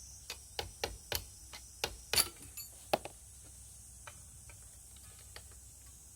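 Irregular sharp clicks and clinks, likely metal hand tools being handled: about a dozen in the first three seconds, then a few faint ones.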